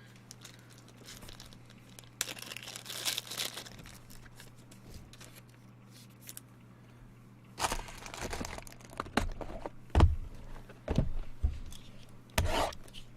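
Trading-card pack wrapper and box packaging crinkling and tearing as they are opened by hand, with a few sharp knocks from the packaging being handled and set down.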